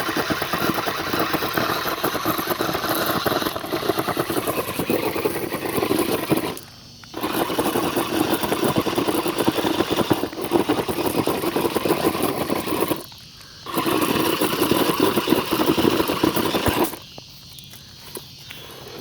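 R/C monster truck's motor running at high throttle with its tyres spinning and churning through loose rocks, in three long bursts with two brief pauses, then stopping near the end.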